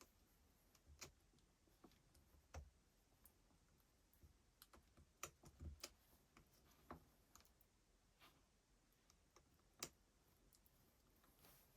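Faint, irregular clicks and light taps, about a dozen scattered through, the sharpest near the end, of small parts being handled.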